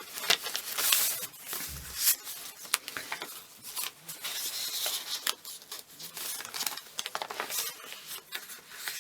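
Paper and card pages of a handmade junk journal rustling and crinkling as they are handled, turned and unfolded, with irregular small clicks and taps.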